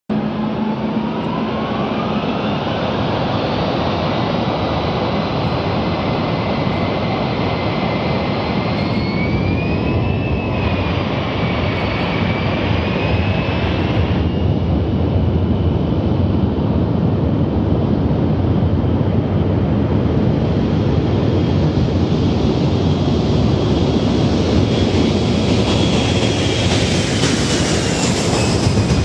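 Boeing B-52 Stratofortress's eight jet engines running loud and steady. A whine rides over the noise, gliding up early on and wavering in pitch, and the sound turns brighter near the end.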